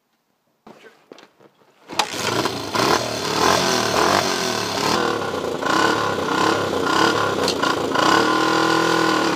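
Motorcycle engine comes in suddenly about two seconds in and runs steadily, with a brief rev near the end.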